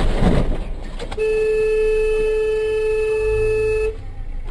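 Vehicle horn held in one steady blast for nearly three seconds, starting about a second in, over road and engine noise.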